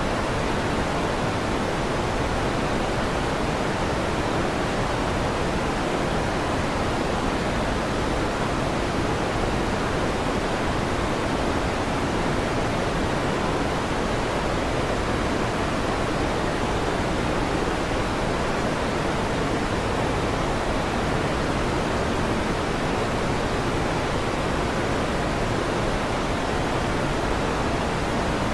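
Electric fan running with a steady, unchanging whoosh, deep and full rather than hissy.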